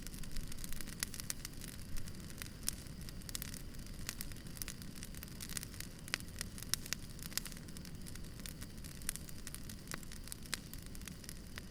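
Wood campfire crackling, with frequent sharp, irregular pops and snaps over a steady low rumble of the burning fire.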